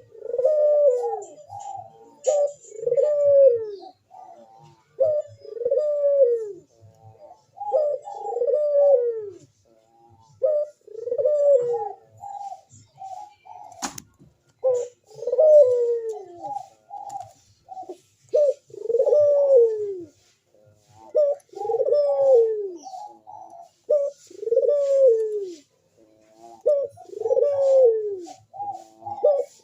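A male puter (ringneck, or Barbary, dove) in full breeding condition cooing over and over, its long rolling coo sliding down in pitch about every two and a half to three seconds, with short notes between the coos. A single sharp click comes about halfway through.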